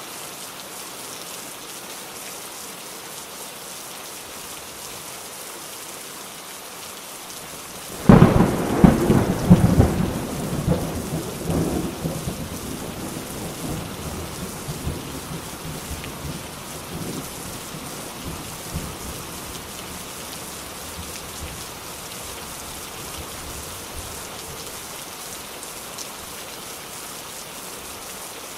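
Steady rain falling, with a sudden loud thunderclap about a third of the way in that cracks and rumbles, then dies away over about ten seconds.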